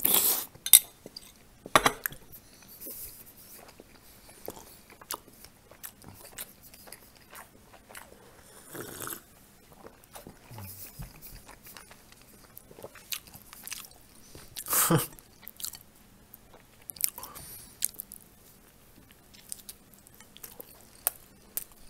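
Close-up chewing and mouth noises of a person eating thin pancakes with strawberry jam. There are a few louder moments near the start, about nine seconds in and about fifteen seconds in.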